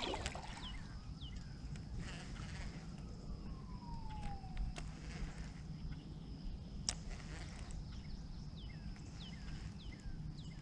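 Faint outdoor ambience: a steady high insect buzz with many short falling chirps scattered throughout, and one long falling whistle a few seconds in, over a low rumble.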